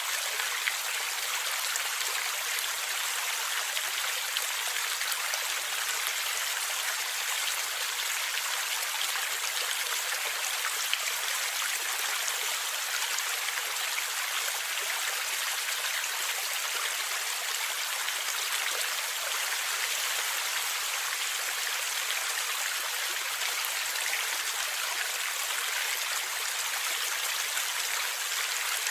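Water in a forest stream flowing and gurgling: a steady rush speckled with small splashes.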